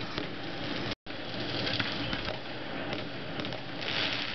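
Fireworks crackling and popping over a steady hiss. The sound cuts out for an instant about a second in, and a denser crackle comes near the end.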